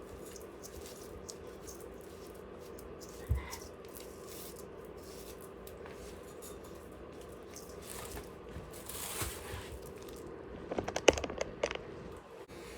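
Faint steady hum of cordless hair clippers running, with scraping and crackling as they work through the boy's hair. There is a single thump about three seconds in, and a louder run of crackling near the end.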